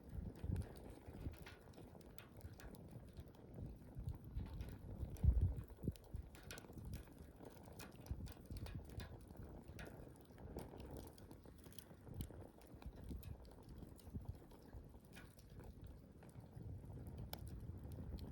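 Wood campfire burning, with irregular crackles and small pops over a low uneven rumble that swells about five seconds in.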